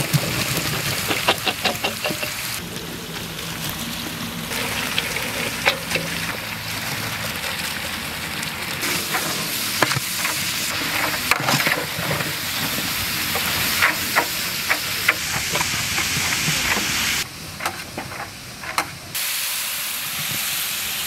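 Chopped onions frying in hot coconut oil, sizzling steadily while they are stirred, with short scraping clicks from the stirring spoon. The sizzle drops in level for about two seconds some seventeen seconds in.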